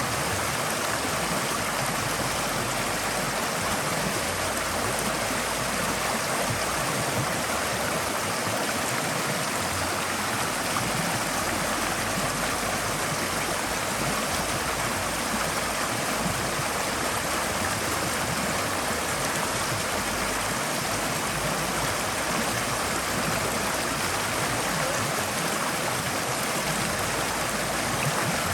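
Forest stream flowing steadily over stones, a continuous rushing and babbling of water.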